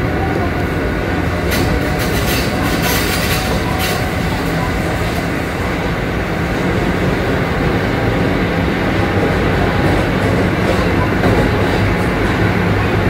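Kintetsu 7000 series electric train running, heard from on board: steady rolling noise with a run of sharp clicks between about one and four seconds in, and a low hum growing louder near the end.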